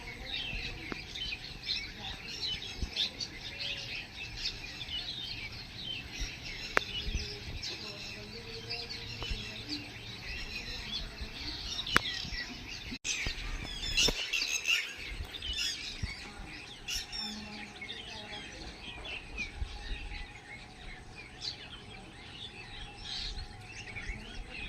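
Several small birds chirping and calling at once, a dense overlapping chorus of short high-pitched chirps with a brief break about halfway through.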